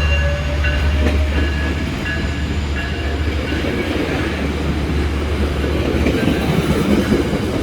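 Train rolling by on the rails: a steady low rumble with rattling wheel and car noise that grows louder after about four seconds. A short high ringing tone repeats about every half second over the first three seconds, then fades.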